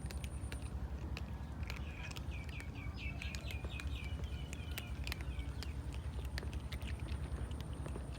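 Cats crunching dry food: irregular sharp clicks and crunches throughout. A bird gives a quick run of short chirps about two seconds in.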